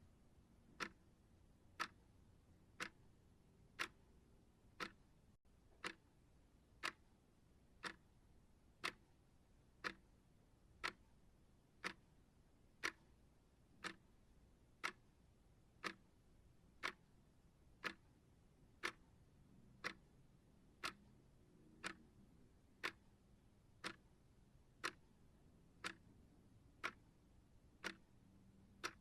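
Clock ticking steadily, one short sharp tick about every second.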